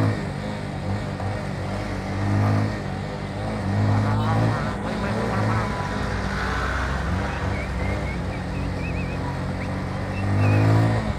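Motorcycle engine running at road speed, swelling with the throttle a few times, over steady road and wind noise. Faint, wavering high tones come in over the second half.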